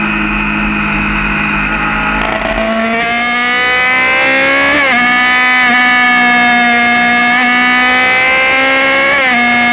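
Yamaha FZ6's 600 cc inline-four engine accelerating hard: the revs climb, dip at a gear change about five seconds in, climb steadily again, and dip at another shift near the end. Low wind rumble on the microphone in the first couple of seconds.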